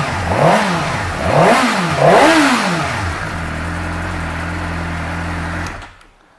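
2006 Suzuki GSX-R600's inline-four engine blipped three times in quick succession, each rev rising and falling, then settling back to a steady idle. It shuts off near the end.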